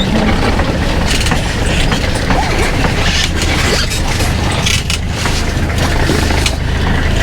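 Safari vehicle's engine running steadily with a low hum, with scattered knocks and rattles over it.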